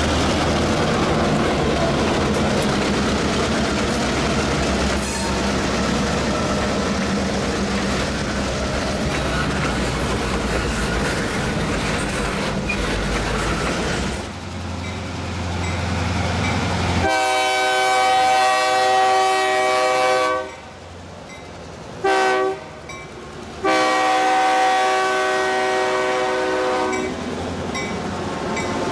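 Diesel freight train led by EMD GP38-2 locomotives running past close by, engines rumbling over the clatter of wheels on rail. A little past halfway, the locomotive's air horn sounds a chord in three blasts: long, short, long.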